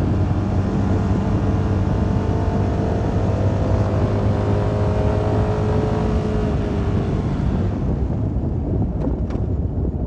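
CFMoto 300NK's single-cylinder engine running under a steady rush of wind, the engine note easing lower as the bike slows. The wind rush dies away about eight seconds in.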